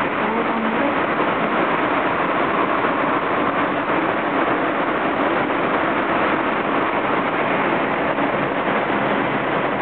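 Interior running noise of a Tsukuba Express TX-1000 series electric train car: a steady rumble of wheels on rail and car body that holds even, with no rise or fall in pitch.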